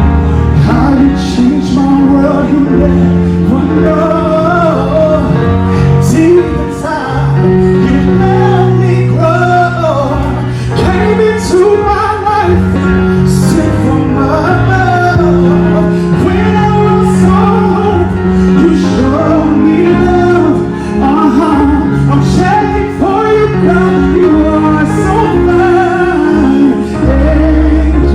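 Live band music with a sung melody over bass and drums, loud and continuous.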